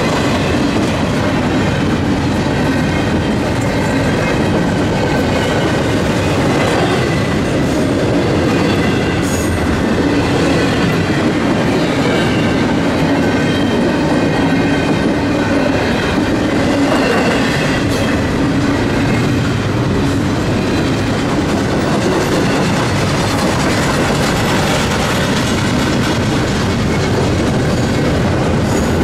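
Double-stack intermodal freight train rolling past: steady rumble and clickety-clack of the well cars' wheels on the rails, with a faint high wheel squeal drifting in and out.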